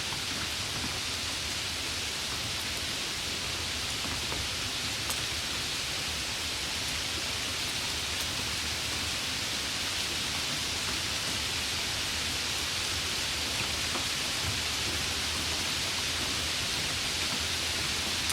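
Heavy rain falling steadily, a dense even hiss with a low rumble beneath it.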